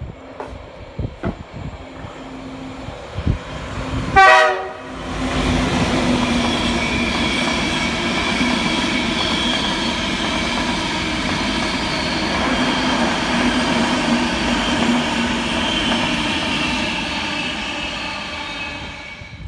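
An express passenger train sounds a short horn blast about four seconds in, then runs through the station at speed with a steady loud rushing noise and a low hum, easing off near the end as it draws away.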